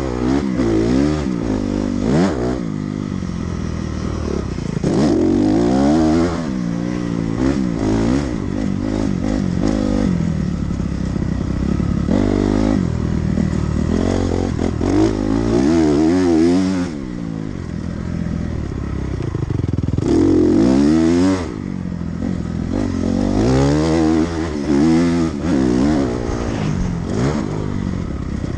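Dirt bike engine riding a motocross track: it revs up and drops back over and over, rising in pitch and falling as the throttle is opened and closed, with a few longer pulls.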